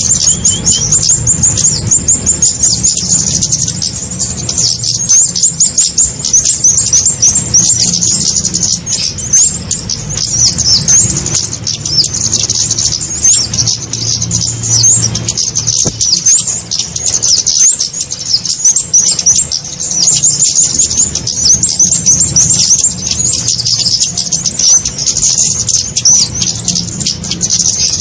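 Recorded bird-lure call of the kemade, a small bird: dense, rapid, high-pitched chirps and twittering trills that run on without a break, over a steady low hum, played to draw in small birds such as flowerpeckers.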